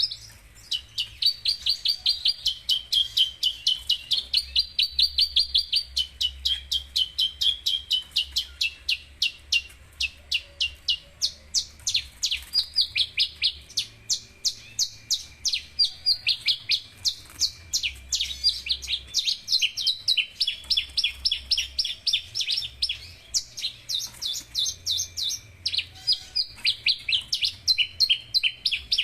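Javan bush lark singing: a long unbroken run of sharp, high-pitched chirps, about three or four a second.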